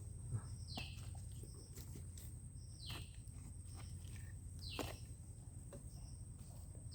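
A bird repeating a short, high, falling call about every two seconds, over a steady low rumble and a faint, constant high-pitched whine.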